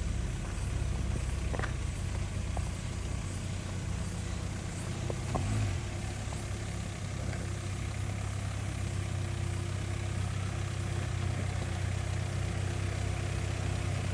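Off-road vehicle engine running steadily at low revs, with a slight swell about five seconds in and a few faint knocks.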